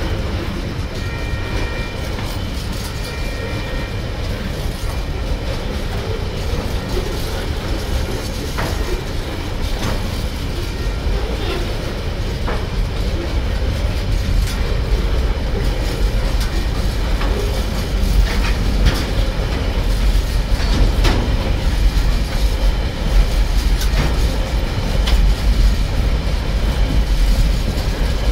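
Loaded container wagons of a freight train rolling past at close range: a steady rumble with scattered clicks of wheels over rail joints, growing a little louder in the second half.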